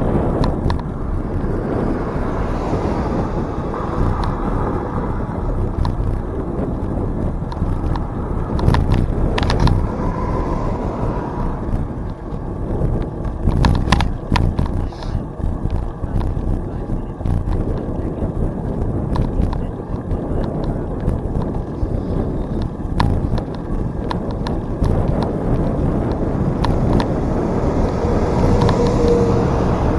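Riding a bicycle along a trail: wind on the microphone and the rolling rumble of the bike, with a scattering of short clicks and rattles.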